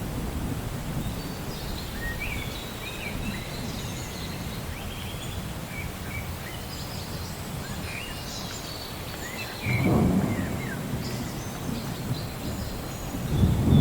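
Rain with a steady low rumble of thunder and birds chirping throughout; a louder roll of thunder breaks in suddenly about ten seconds in, and another swells near the end.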